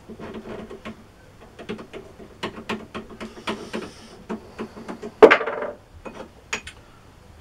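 Small steel lathe sleeves and parts clinking and knocking together as they are handled, with one louder metallic clank about five seconds in that rings briefly.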